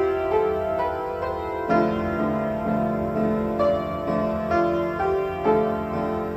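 Instrumental music on a piano-like keyboard: a melody of held notes that change every half second or so, with lower accompanying notes coming in near the start.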